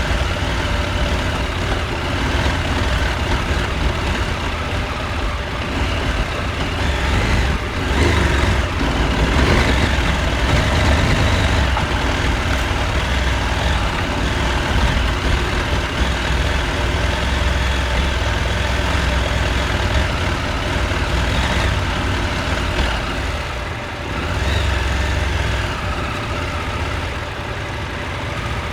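Husqvarna Norden 901's parallel-twin engine running as the motorcycle is ridden off-road. The engine swells louder a third of the way in, then eases and dips briefly near the end.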